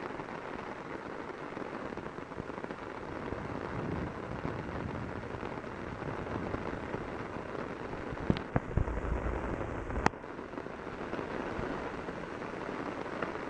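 Torrential rain pounding on an umbrella, a steady dense hiss of downpour. A few sharp knocks come about eight and ten seconds in, with a brief low rumble between them.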